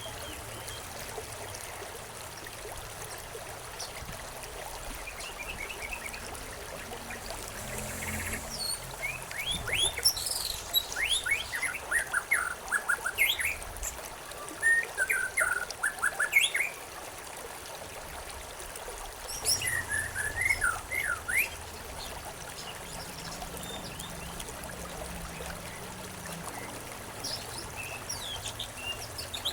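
Small songbirds chirping in quick runs of short, downward-slurred notes, in two main bouts, over a steady trickling stream.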